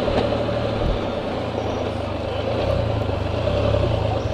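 Can-Am Spyder RT's three-cylinder engine running at low speed with a steady low hum, under a constant hiss.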